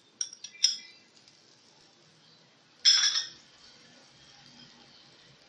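A metal spoon clinking quickly against a cooking pan several times as butter is spooned in. About three seconds in, one louder clatter of utensil on pan follows, ringing briefly.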